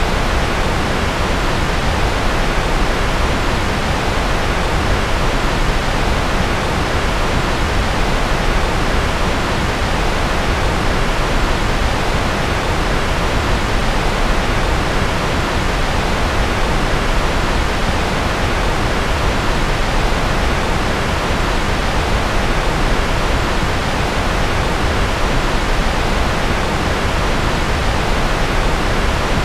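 Steady, unchanging generated white-noise hiss, a continuous even rush with no rhythm or events. Its energy leans toward the low end, closer to pink noise than flat white.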